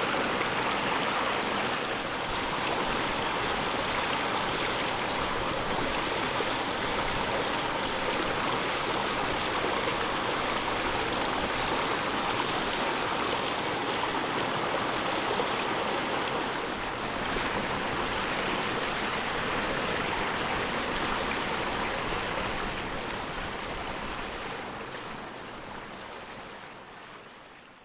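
Mountain stream flowing steadily, a constant rush of water that fades out near the end.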